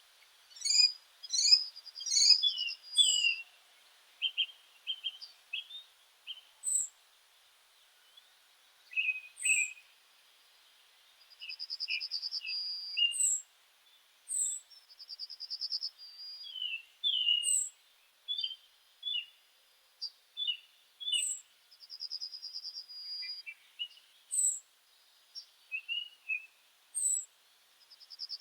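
Several small birds singing and calling: short high chirps and whistled notes, with a buzzy trill repeated every few seconds.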